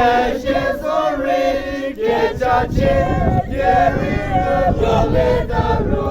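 A group of voices singing together in a chant-like choral style, with held notes that bend and step between pitches, over a low rumble.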